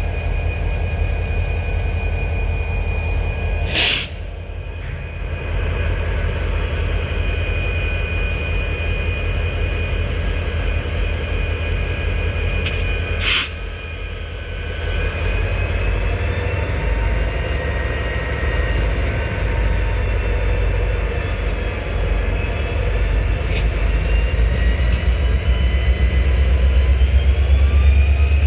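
Diesel locomotive engine running with a steady low rumble, its pitch and loudness climbing near the end as it throttles up. Two short, sharp sounds cut through about 4 and 13 seconds in.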